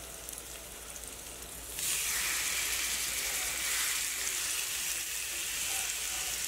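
Seasoned chicken breast frying in hot oil in a cast iron skillet: a steady sizzle that turns much louder about two seconds in, as a second breast is laid into the pan.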